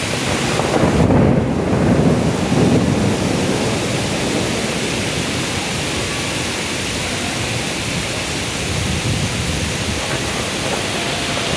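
Heavy thunderstorm: a steady downpour of rain, with a low rumble of thunder swelling about a second in and dying away over the next couple of seconds.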